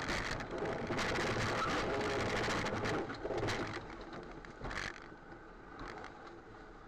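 Vehicle and road noise picked up by a dashcam microphone, with scattered clicks and knocks; it fades noticeably after about three seconds.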